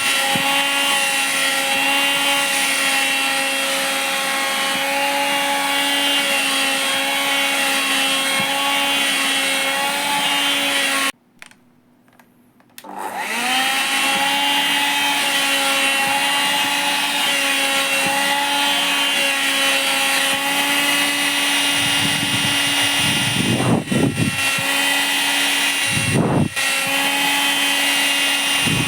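Vacuum cleaner motor running with a steady high whine. It cuts out about eleven seconds in and spins back up, rising in pitch, a second and a half later. Near the end come three short low rushing swells as the suction works at the cloth.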